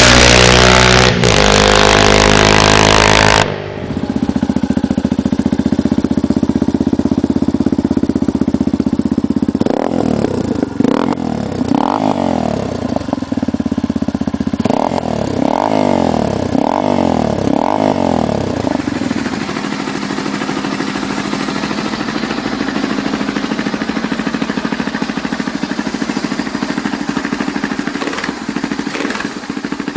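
Yamaha TT-R250 single-cylinder four-stroke dirt bike engine. It runs loudly at first, then, after an abrupt change a few seconds in, idles steadily. Around the middle it is given several quick throttle blips, each rising and falling in pitch, then settles back to a steady idle.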